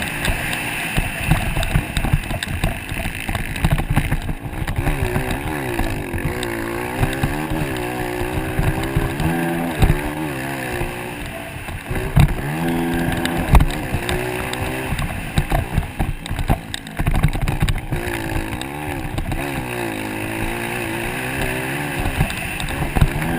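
Motocross dirt bike engines racing, revving up and falling back repeatedly as the bikes accelerate and shift around the track.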